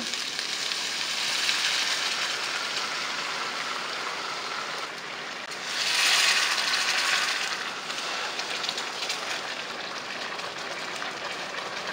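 Fish curry sizzling in hot oil in a nonstick pan as warm water is added and stirred in, the sizzle swelling louder about six seconds in.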